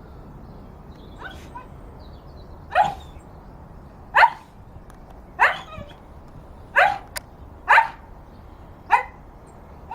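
A dog barking: single, separate barks about a second or a second and a half apart, a faint one early and then six loud ones.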